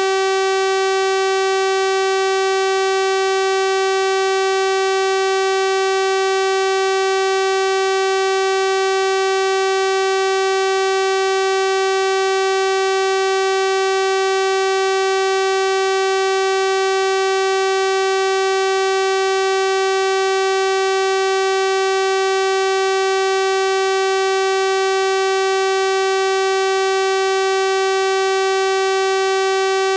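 A steady electronic 384 Hz sawtooth-wave tone, a buzzy drone with a full series of harmonics, holding at one pitch and level throughout.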